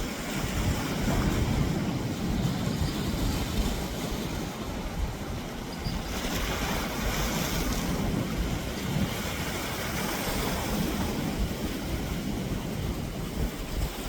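Steady rushing outdoor noise with no distinct tones, swelling about six seconds in and easing off a couple of seconds later.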